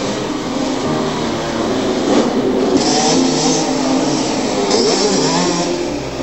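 Small 65 cc and 85 cc two-stroke motocross bike engines revving on a track. The pitch keeps rising and falling with the throttle, and several engines overlap.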